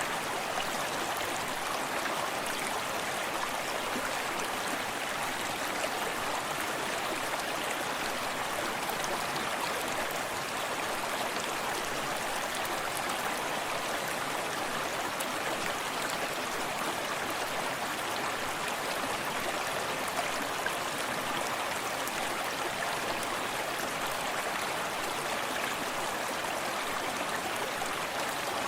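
Small forest stream running steadily, water splashing and babbling over rocks in a continuous even rush.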